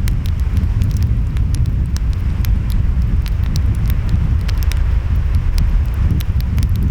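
Wood fire crackling, with frequent sharp pops scattered over a steady deep rumble of wind and surf.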